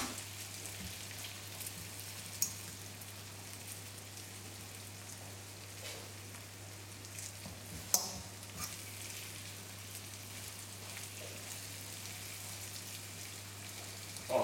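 Flour-coated chicken strips sizzling as they fry in a wok. A few sharp clicks of a fork knocking the pan while turning them, the loudest about eight seconds in.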